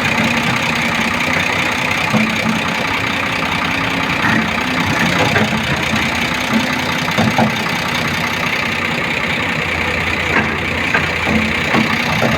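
Volvo backhoe loader's diesel engine running steadily, with scattered short knocks over the engine sound.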